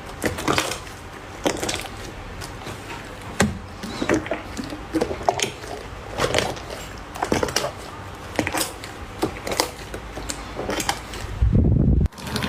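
Slime being worked by hand, making irregular sharp clicks and popping sounds. Near the end comes a heavier, deeper squelch that cuts off abruptly.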